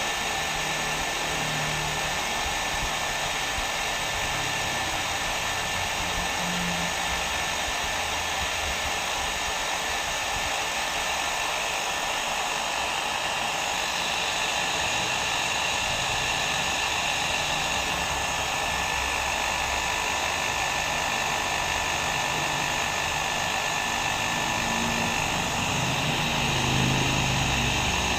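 Hair dryer running steadily, a continuous whooshing blow of air with a faint steady whine from the motor.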